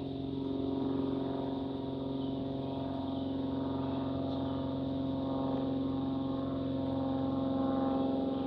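An engine running steadily, a constant drone with a strong low hum that holds pitch and level.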